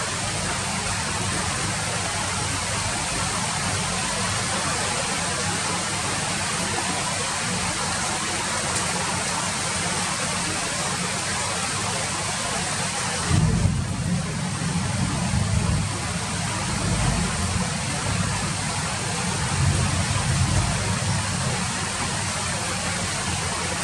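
Steady rain falling, a dense even hiss. From about halfway in, low rumbling swells come and go beneath it.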